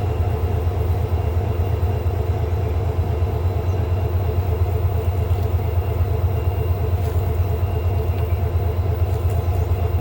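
Freight train's diesel locomotive running with a steady low rumble.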